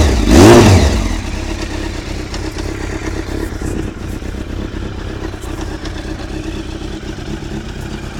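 Honda CBR900RR Fireblade's inline-four engine, breathing through a Honda VFR silencer, given a quick blip of the throttle that rises and falls in pitch, then settling back to a steady idle about a second in.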